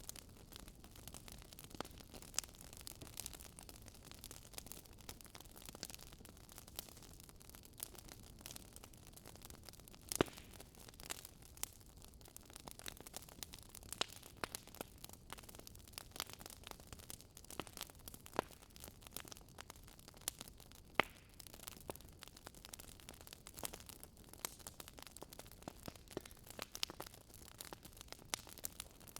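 Wood fire burning with irregular crackles and pops over a soft hiss, a couple of sharper pops standing out.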